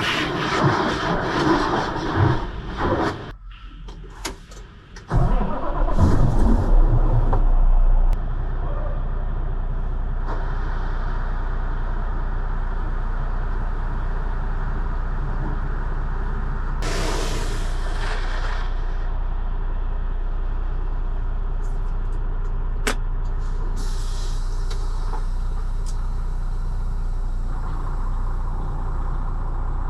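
A Kenworth T680 semi truck's diesel engine starts about five seconds in. It runs louder for a few seconds, then settles into a steady idle. A short hiss of released air comes in the middle.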